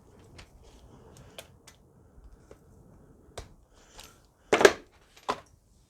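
Handling noise from working on a demolition hammer: scattered small clicks and taps, then two sharper knocks, the louder one about four and a half seconds in and another under a second later.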